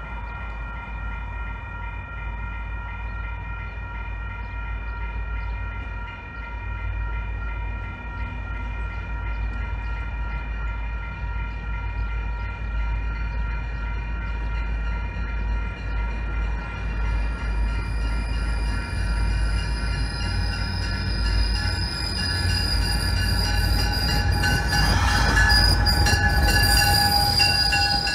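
MBTA commuter rail train arriving at a platform: its rumble builds steadily, a high metallic squeal from the wheels joins about two-thirds of the way in, and the noise peaks as the coaches pass close near the end. Steady ringing tones sound throughout.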